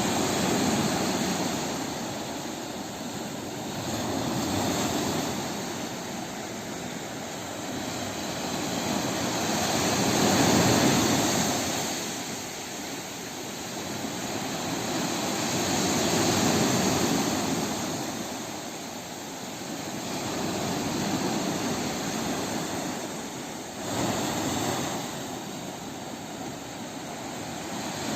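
Sea surf: waves washing ashore in a steady rush that swells and ebbs every few seconds, with one wave arriving more sharply near the end.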